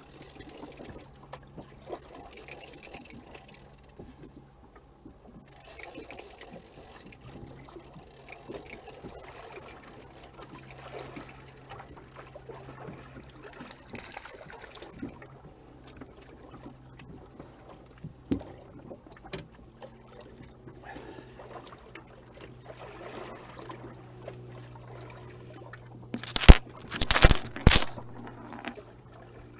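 Water lapping and trickling against the hull of a small anchored fishing boat, under a faint steady low hum. Near the end comes a burst of loud scraping and rustling close to the microphone.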